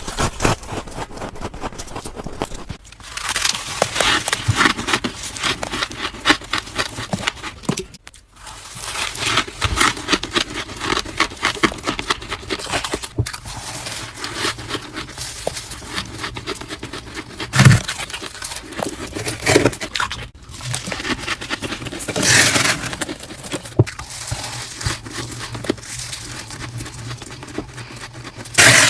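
Freezer frost ice being bitten and crunched up close: a dense run of crackling crunches, broken by a few short pauses.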